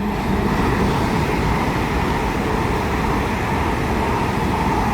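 GWR Class 800 passenger train passing through the station, a steady rush and rumble of wheels on rail with a faint whine, swelling as it arrives.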